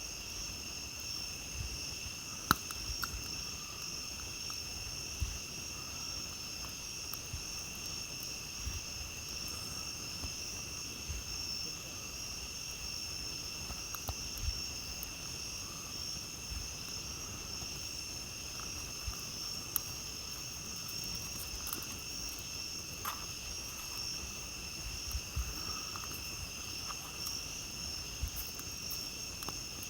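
Crickets singing in a steady, constant high chorus. Under it a wood campfire gives occasional sharp pops and crackles, the loudest about two and a half seconds in.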